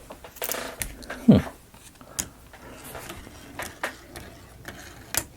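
Scattered clicks and knocks of marbles against the wooden parts of a wooden marble-run model, a handful of separate hits with the loudest knock about a second in.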